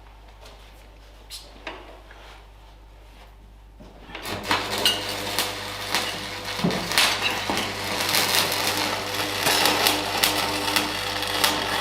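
A few light metallic clinks of parts being handled, then about four seconds in a small power tool starts and runs steadily on the work, with dense clicking over its noise.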